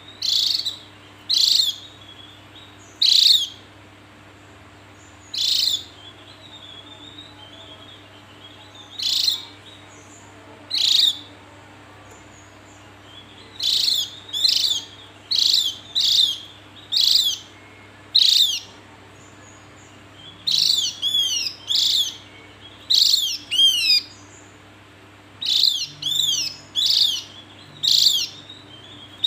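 Javan grey-throated white-eye (opior Jawa) calling: short, high, down-slurred notes repeated every second or two, with quicker clusters of sweeping notes in the second half. A faint steady low hum runs underneath.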